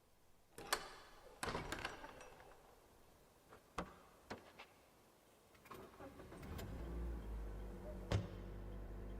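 A few separate clicks and knocks, like a car door and keys, then a car engine starting about six and a half seconds in and running with a steady low rumble.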